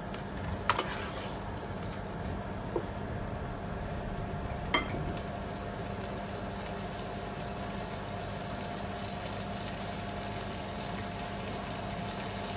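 Chicken pieces frying in butter in a pot over a high flame, a steady sizzle, with two short knocks, one under a second in and one about five seconds in.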